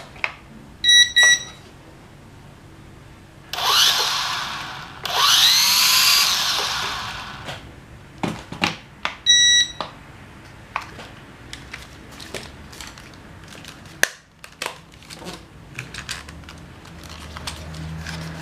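SG900-S quadcopter drone being tested: short electronic beeps, then its motors spin up twice in brief bursts of whine rising and falling in pitch, followed by scattered clicks and another beep from handling.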